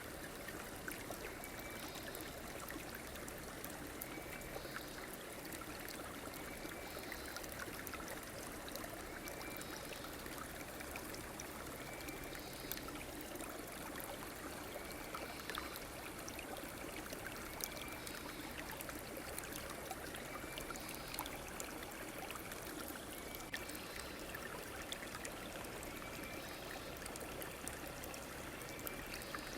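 A river flowing steadily, with a faint short high call repeating about every two and a half seconds.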